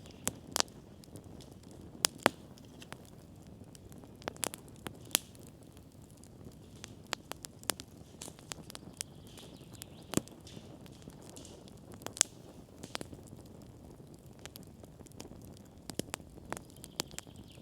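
Wood campfire crackling, with irregular sharp pops every second or so over a low steady hiss.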